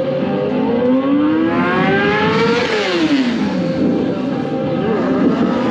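Stunt motorcycle's engine climbing in revs for about two seconds, then dropping quickly back to a steady low idle.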